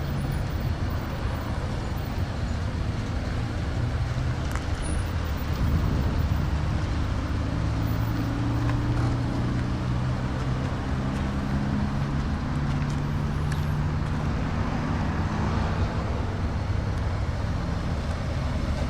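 Car engine idling: a steady low hum with a slowly shifting drone.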